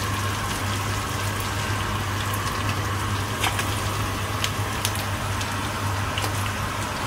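Fish and sliced onions frying in a pan of hot oil: a steady sizzle with scattered sharp crackles of spattering oil, over a steady low hum.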